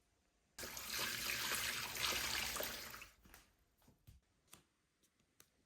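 Water pouring into a foot bath basin, starting suddenly just after the start and stopping about three seconds in, followed by a few separate drips and small splashes.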